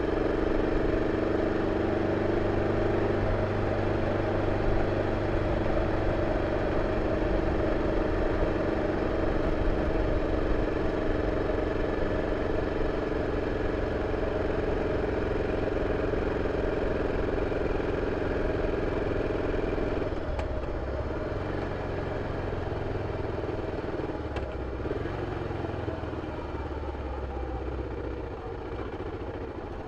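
BMW F 650 CS single-cylinder motorcycle engine running through its original exhaust with a steady note. About two-thirds of the way through, the note changes and eases off.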